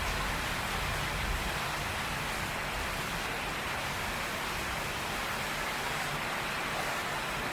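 Heavy tropical rain pouring steadily onto a tin roof, an even rushing hiss. A low rumble underneath fades away within the first couple of seconds.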